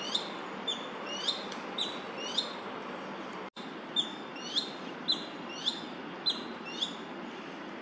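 Male crested goshawk giving its alarm call: a series of high, upslurred notes, about two a second, over a steady background hum.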